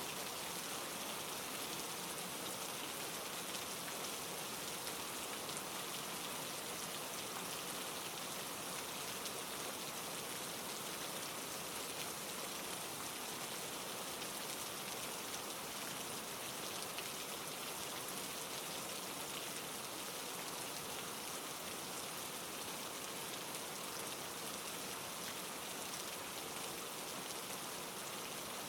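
Steady rain falling and pattering on a surface, an even hiss of drops without break.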